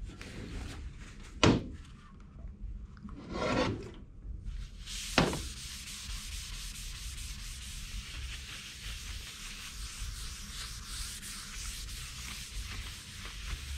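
Two sharp knocks and a brief rub, then steady rough rubbing or scraping on a surface.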